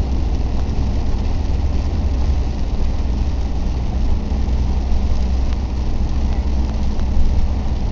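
Car cabin noise in heavy rain: a steady low engine and tyre rumble under an even hiss of rain and water on the car.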